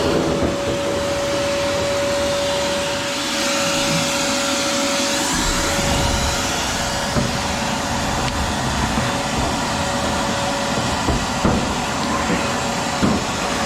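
Vacuum cleaner running steadily with a high motor whine and rushing air, sucking dirt off a dirty condenser coil. A few knocks near the end, then the motor shuts off and winds down.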